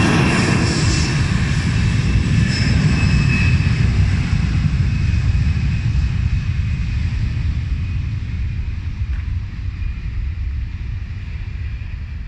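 Airliner's engines passing close: a loud deep rumble with a high whine, fading steadily as the aircraft moves away.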